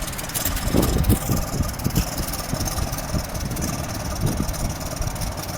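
Engine of an amphibious boat on wheels running, a steady low rumble with a few irregular heavier pulses in the first two seconds.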